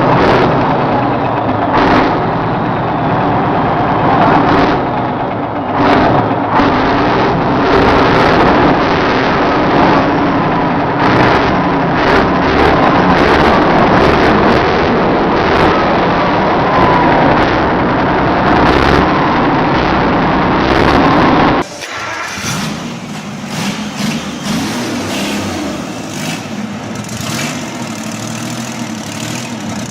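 Internal combustion engine running loudly, with many irregular sharp knocks. About two-thirds of the way in, it cuts abruptly to another engine running more quietly.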